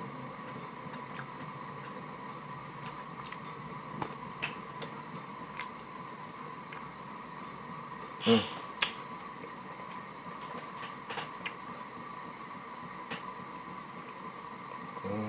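A person chewing soft tacos close to the microphone: scattered soft mouth clicks and smacks, with a louder one about eight seconds in, over a faint steady hum.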